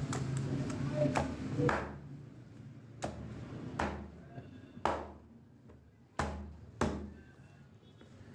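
A cleaver chopping a whole chicken into pieces on a chopping block: about eight sharp chops at irregular intervals of roughly a second.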